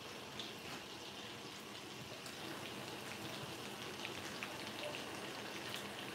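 Salmon fillets sizzling in bubbling lemon-garlic butter in a skillet: a steady, faint frying crackle of many small pops.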